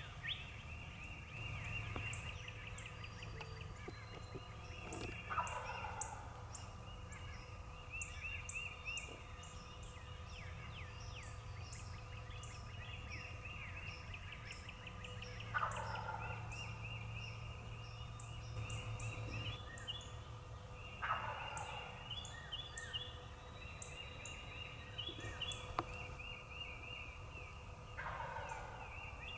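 Eastern wild turkey gobbler gobbling four times, several seconds apart, each gobble a falling rattle. Songbirds chirp throughout.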